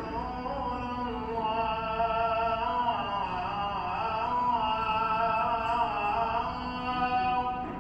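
A voice chanting a slow melodic line, long notes held and wavering in pitch with ornamental turns.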